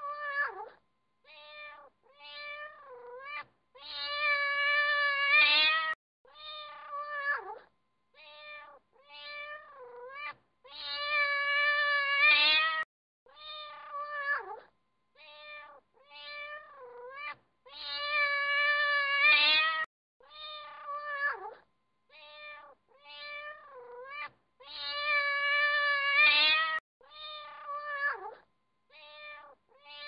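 Cat meowing over and over: a run of short meows that drop in pitch, broken about every seven seconds by a long, drawn-out meow. The same sequence repeats each time.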